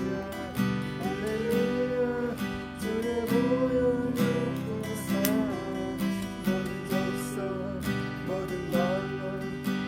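Acoustic guitar strummed in a steady rhythm, playing a gospel worship song, with a gliding melody line over the chords.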